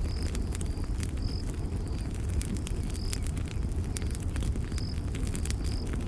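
Campfire crackling with sharp pops over a steady low rumble, and a short high chirp about once a second.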